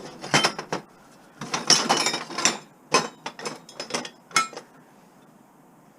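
Small metal parts clinking and rattling against each other as they are handled, in several quick clusters of clicks that die away about four and a half seconds in.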